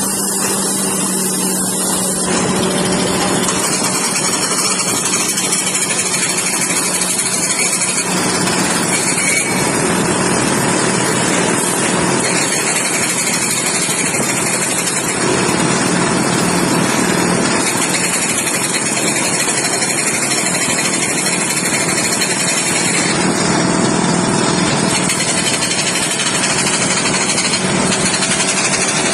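Engine of a water-well drilling rig running steadily.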